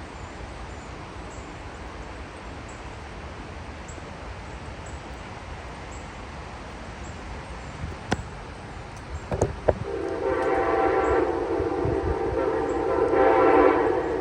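Amtrak ALC42 Charger locomotive sounding its air horn: one long blast begins about ten seconds in and grows louder toward the end, over a steady hiss of heavy rain. A few sharp clicks come just before the horn.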